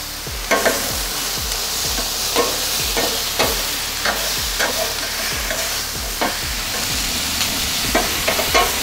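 Sliced beef, onions and provolone sizzling on a gas flat-top griddle, with a metal spatula clacking and scraping against the steel plate every half second to a second as the meat and onions are mixed.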